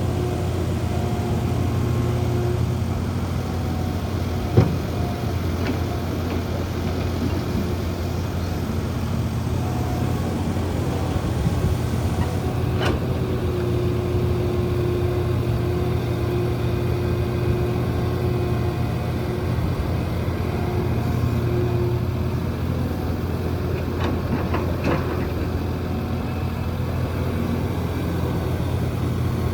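Heavy diesel construction machinery engine running steadily, with a sharp knock about four seconds in and a few fainter clicks later.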